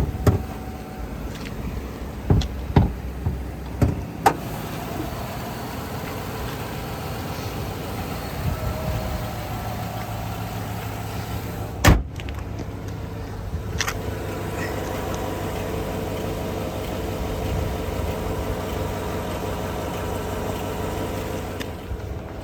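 Chevy pickup truck idling with a steady hum, with a few knocks and clicks in the first four seconds and one sharp knock about twelve seconds in.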